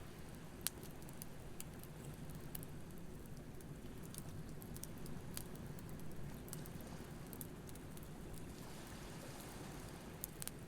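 Wood campfire crackling with scattered sharp pops, one standing out about a second in, over a low steady wash of ocean waves.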